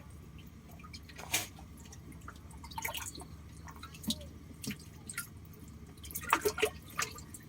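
Water dripping and splashing in small irregular plops from snakes and eels moving in water held in a boat, with a quick cluster of louder splashes near the end.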